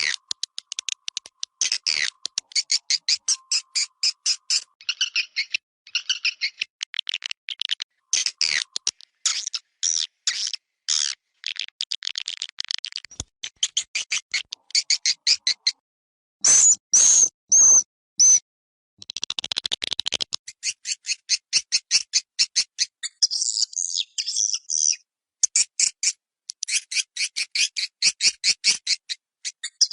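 Recorded swiftlet calls of the kind played as an external lure sound to draw swiftlets to a nesting house. They come as rapid trains of dry, high chirping clicks broken by short gaps. A little past halfway there are four louder, shriller chirps, followed by a denser buzzing run.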